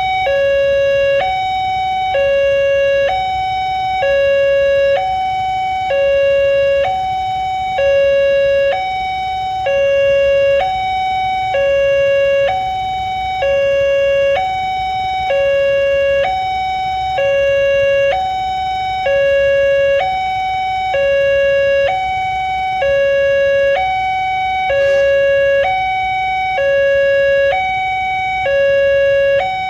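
Railway level crossing warning alarm sounding a steady two-tone signal, alternating between a higher and a lower tone, each held about a second. It sounds while the crossing barriers close for an approaching train.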